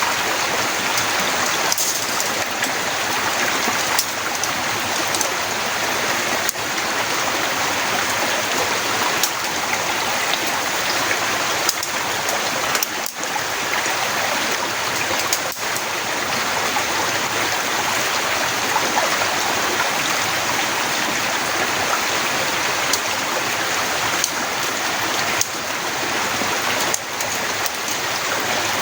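Heavy rain falling in a steady hiss, with scattered sharper drop hits.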